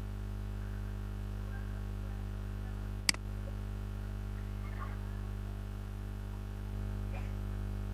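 Steady low electrical mains hum, with a single sharp click about three seconds in.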